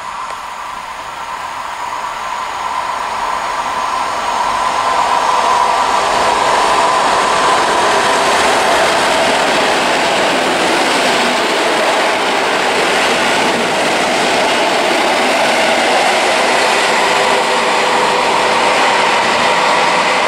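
Three coupled EN57 electric multiple units running through a station at speed without stopping. The noise builds over the first five seconds as the train comes in, then holds as a loud, steady rush with a steady whine through it while the carriages pass.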